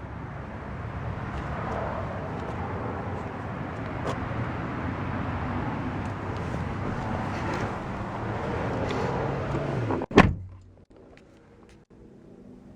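Steady background noise, then a car door shut with one loud thump about ten seconds in, after which the surroundings go much quieter.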